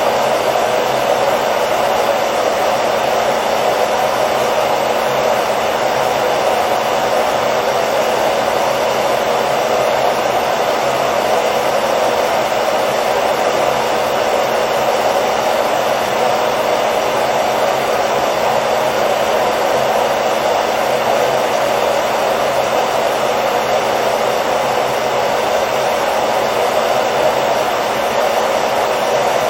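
Hair dryer running steadily, a constant airy whoosh with a motor hum, used as white noise to lull a baby to sleep.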